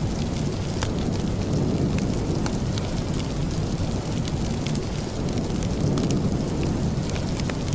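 Steady rain: a dense low wash with fainter hiss above, dotted with many small sharp ticks.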